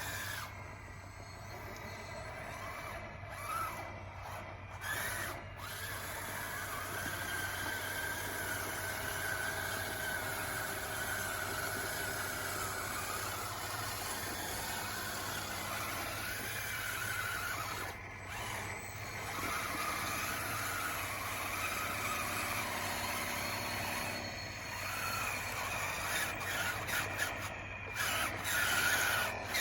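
DXR2 RC bulldozer's electric drive motors and gearing whining, the pitch rising and falling as it moves and pushes dirt.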